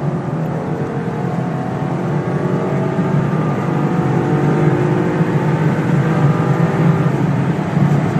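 Ford 5.0 Coyote naturally aspirated V8 in a Mustang GT, running steadily with small rises and falls in revs.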